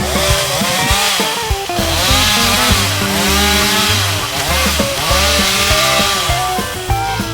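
Chainsaw running and cutting, its engine pitch rising and falling again and again, under background music with a pulsing bass beat.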